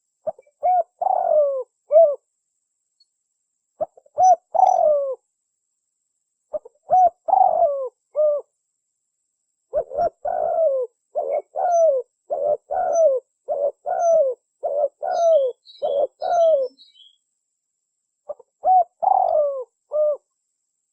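Spotted dove (tekukur) cooing in repeated phrases of several notes, with short silent gaps between them; the middle phrase is a longer run of coos in quick succession. Faint high chirps of a small bird come near the end of that run.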